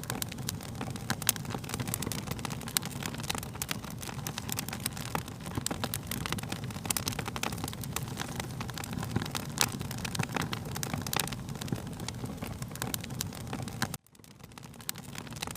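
Wood fire crackling, with frequent sharp pops and snaps over a low steady rumble. About 14 seconds in the sound cuts out abruptly and fades back in, like a loop seam.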